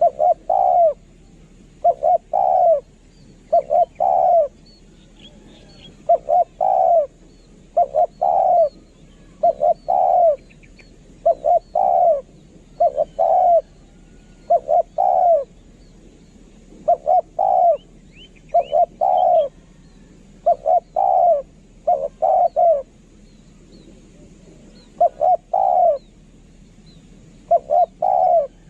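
Spotted dove cooing: short phrases of two or three low coos, repeated about every two seconds with a few longer gaps. Faint high chirps of small birds come in between.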